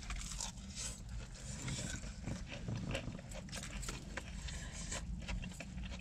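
Two people chewing crispy fried chicken tenders close to the microphone: irregular crunches and wet mouth smacks.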